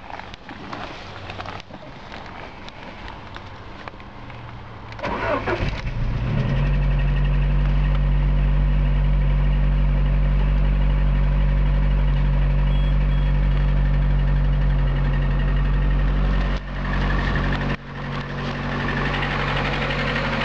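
Lada Priora's 21126 1.6-litre 16-valve petrol engine cranked and started about five seconds in, then running at a steady idle, with two brief dips in level near the end. This is the engine whose unexplained knock the owner is trying to trace.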